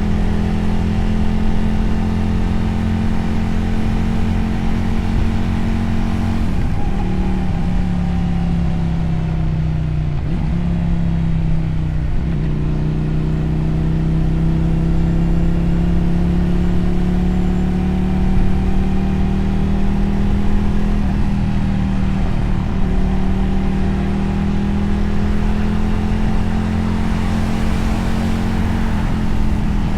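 Motorcycle engine and exhaust heard from the rider's seat while riding. The engine note holds steady, then drops in steps from about six seconds in as the bike slows, climbs slowly and evenly from about twelve seconds, dips once more a little past twenty seconds and then holds steady.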